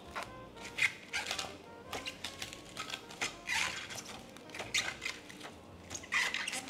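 Plastic cling wrap crinkling and rustling in irregular bursts as it is pulled and stretched over a bowl.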